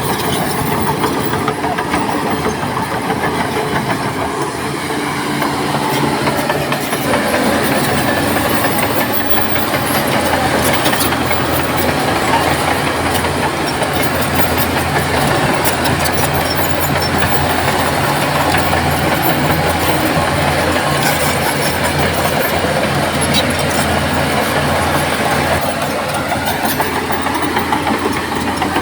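Shantui bulldozer's diesel engine running under load, with a steady low hum and a continuous rattle of small clanks over it. The engine grows louder and heavier about six to eight seconds in and holds there.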